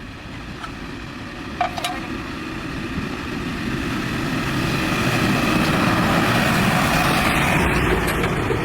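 An engine running, growing steadily louder over the first five seconds and then holding level, with a single sharp click early on.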